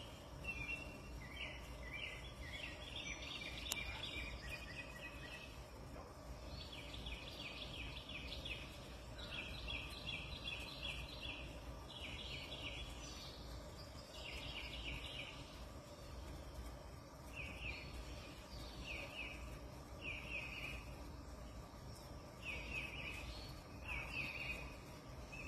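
Outdoor ambience of animal calls: repeated short, rapid chattering trills, each lasting about a second, with brief gaps between them, over a steady low rumble.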